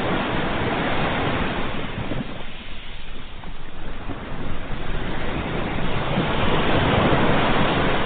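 Ocean waves breaking on a shore: the surf hiss eases off a couple of seconds in, then swells again as the next wave breaks, loudest near the end.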